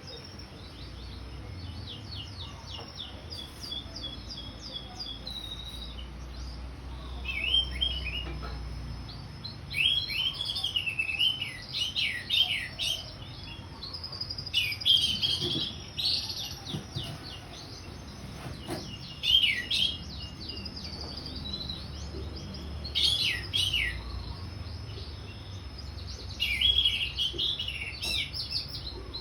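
Orange-headed thrush singing in quick, varied phrases of high whistles and rapid repeated notes, coming in bursts with short pauses between them. A faint low hum lies underneath.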